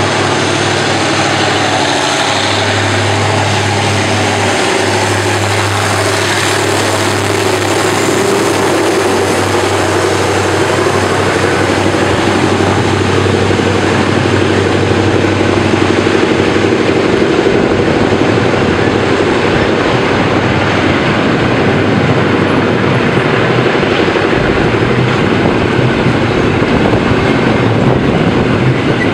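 TCDD DE24000-class diesel-electric locomotive passing at speed, its engine giving a steady low drone that fills the first half. After about halfway the drone fades and the rumble and clatter of freight wagons rolling over the rails takes over.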